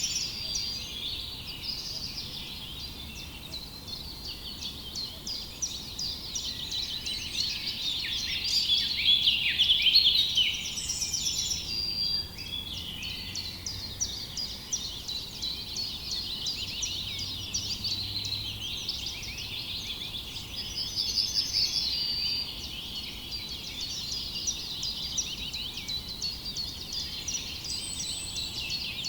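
Many small birds chirping and singing at once, a dense chorus of quick, high chirps and short trills that grows busiest and loudest about nine to ten seconds in.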